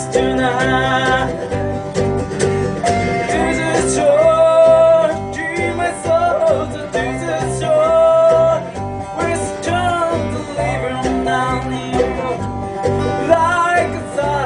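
Bluegrass band playing live: plucked string instruments picking quick notes under a melody line that holds long notes.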